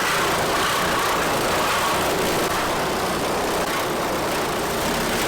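Power tool running steadily, cutting the sheet-metal roof of a Ford Excursion to enlarge the sunroof opening.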